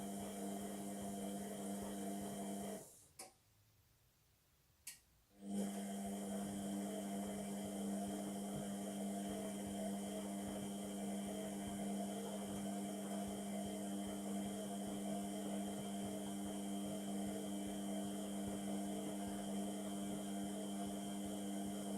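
Indesit washing machine running on a Cotton 30 wash with a steady electrical hum. About three seconds in, the hum cuts out for a couple of seconds, two sharp clicks come in the pause, and then the hum starts up again.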